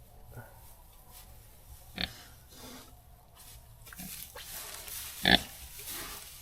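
Pigs squealing sharply twice, about two seconds in and again more loudly a little past five seconds, with softer grunts between. The squeals come as the pigs fight over sleeping spots at bedtime.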